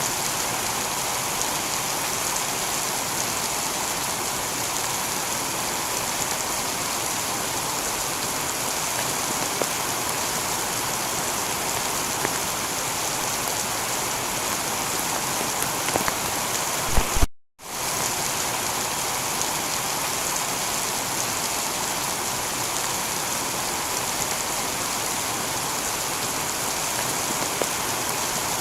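Heavy rain shower falling steadily on a tiled roof. About seventeen seconds in, it drops out for a split second and comes straight back, a seam in the looped recording.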